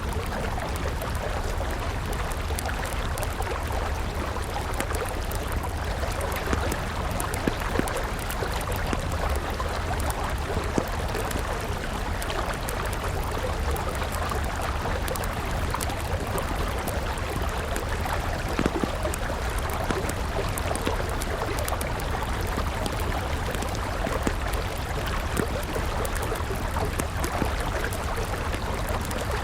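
River water flowing steadily, with a wood campfire crackling over it in small scattered pops.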